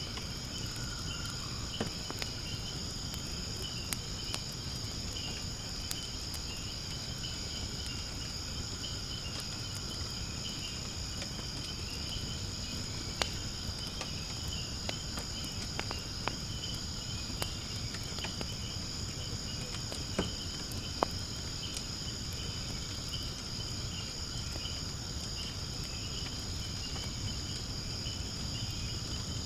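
Firewood burning in a fire pit: a low steady rumble of flame with scattered sharp crackles and pops, a few louder ones past the middle. Behind it runs a steady high chirring of insects.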